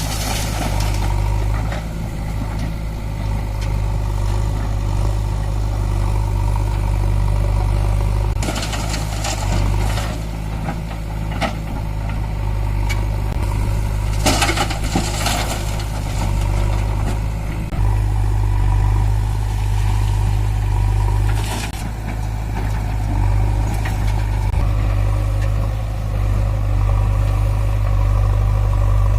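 Sonalika DI 47 RX tractor's diesel engine running steadily, its note shifting a couple of times, with a few short bursts of noise over it.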